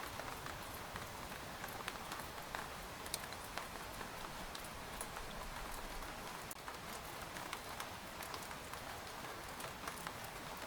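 Rain falling on a tent: a steady hiss of rainfall with many separate drop ticks scattered through it.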